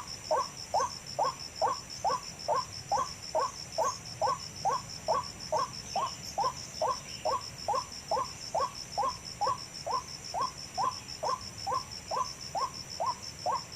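White-breasted waterhen (ruak-ruak) calling, one short hooting note repeated evenly a little over twice a second: the lure call used to draw waterhens in. A steady, fast, high pulsing trill runs underneath.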